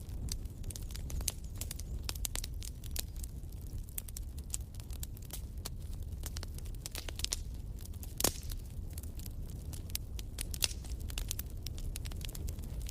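Wood fire in a fireplace crackling, with frequent irregular small pops over a steady low rumble of the flames; one louder pop about eight seconds in.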